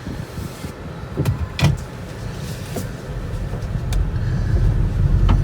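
Car running, its low rumble growing louder from about three seconds in, with a few sharp clicks along the way.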